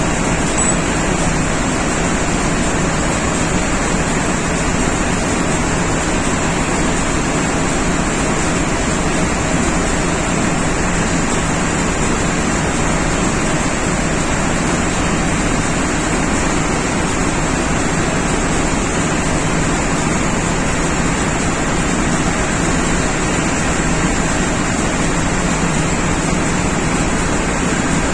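Steady, loud machinery drone with a constant low hum and a faint high whine, unchanging throughout.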